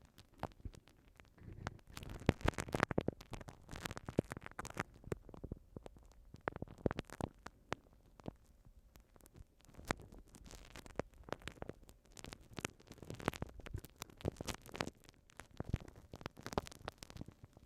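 Solid glue stick dabbed and rubbed directly on a binaural microphone, giving close, sticky crackling with dense, irregular clicks that come in busier and quieter stretches.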